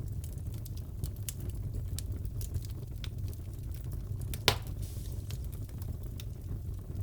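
Crackling fireplace fire: scattered sharp crackles over a steady low rumble, with one louder pop about halfway through.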